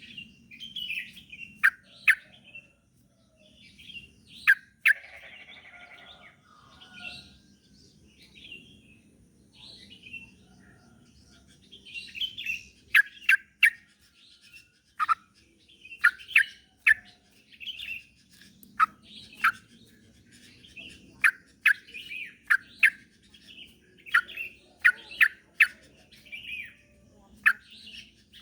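Yellow-vented bulbul (trucuk) singing: bubbly warbled phrases and sharp falling chirps, often in quick runs of two to four, with short pauses between, over a faint steady low hum.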